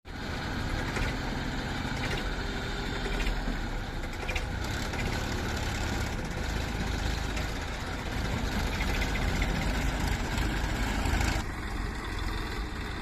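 Diesel engine of heavy farm or construction machinery running steadily with a low rumble; about eleven seconds in the sound abruptly turns duller.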